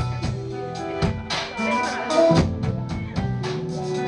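Band playing the instrumental intro of a pop song: sustained guitar and keyboard-like chords over a steady drum kit beat, with no singing yet.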